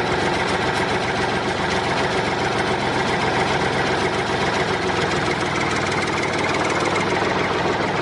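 Mini tractor's engine idling steadily, a fast even thudding with no change in speed.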